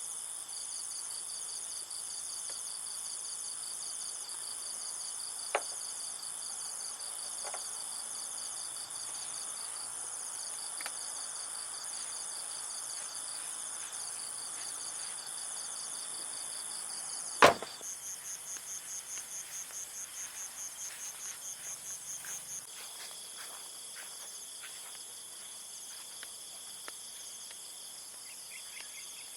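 Insects chirring steadily in several high, pulsing tones. A single sharp knock stands out about two thirds of the way through, and right after it one call pulses faster, about four or five times a second, for a few seconds.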